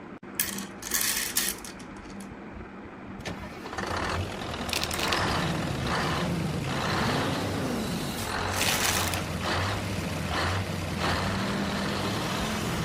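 Truck engine sounds: a few short hisses of air in the first second or so, then an engine starting up about three to four seconds in and running with revs rising and falling.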